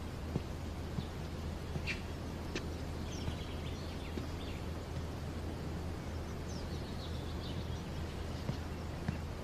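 Birds chirping, with a short rapid trill a few seconds in and more chirps later, over a steady low hum and a few faint clicks.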